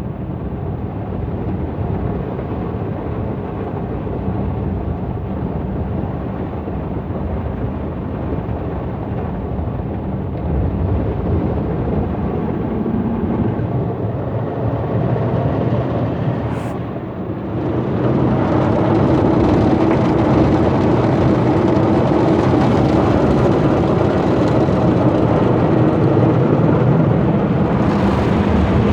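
Tammermatic T700 rollover car wash working over the car, heard from inside the cabin: a steady wash of water and machine noise. It grows louder and brighter a little over halfway through, as the gantry moves or changes stage.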